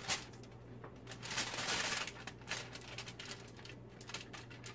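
Aluminium foil crinkling and rustling in short irregular bursts as chicken pieces are slid into a folded foil packet, over a faint steady low hum.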